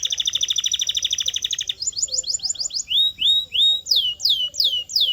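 Canary singing: a rapid trill of fast repeated notes for the first couple of seconds, then a run of quick downward-sweeping whistled notes.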